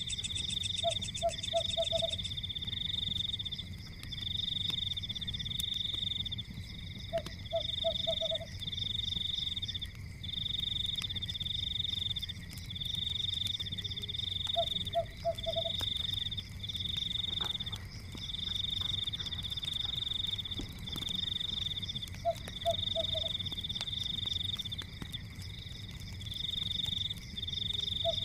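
Night chorus of frogs: a high, fast pulsing trill in roughly one-second bursts with short gaps, and a lower croak of three or four quick notes about every seven seconds. Underneath are a low steady rumble and faint scattered crackles of a wood fire.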